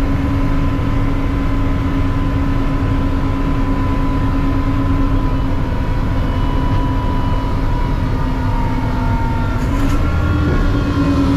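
Mack CNG front-loader garbage truck running steadily, a low rumble with a constant whine over it. The pitch rises slightly about ten seconds in, just after a brief click.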